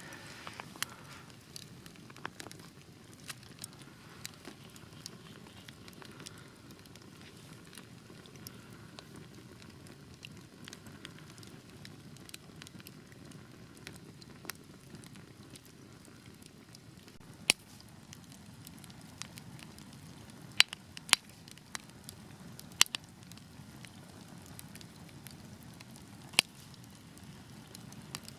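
Wood fire burning in a fireplace: a soft steady rushing of flames with scattered crackles, and a handful of sharp, loud pops in the second half.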